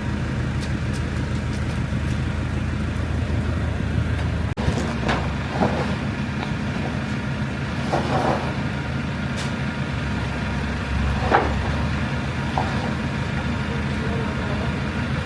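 Diesel engine of heavy demolition machinery running steadily, with a few short clanks and squeaks over it.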